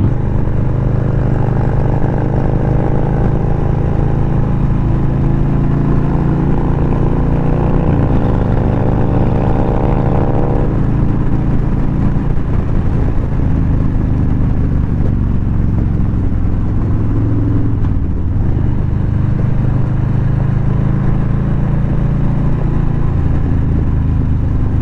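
Motorcycle engine running under way, its pitch climbing steadily for several seconds as it accelerates, then dropping back about eleven seconds in and running on steadily.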